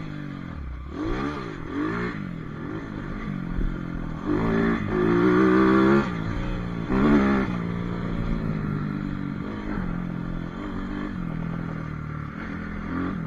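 Pit bike engine revving up and down as the bike is ridden, with the hardest revs about halfway through.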